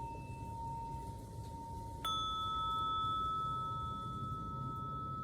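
Crystal singing bowls ringing. A tone from an earlier strike fades out over the first two seconds, then a bowl is struck about two seconds in and its new, higher note rings on steadily.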